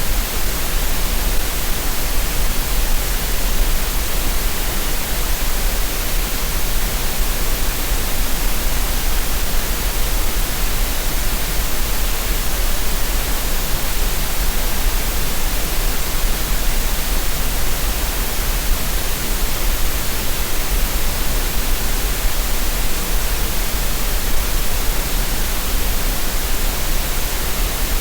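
Steady, unchanging green noise: an even electronic hiss across the whole range with a low rumble beneath, made for relaxation and tinnitus masking.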